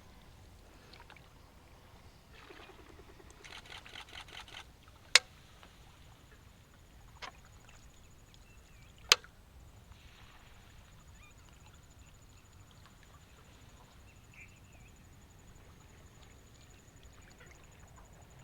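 Oar working the water beside a rowboat, with soft trickling and dripping and a short rattling run of duck-like calls a few seconds in. Two sharp knocks about four seconds apart stand out as the loudest sounds.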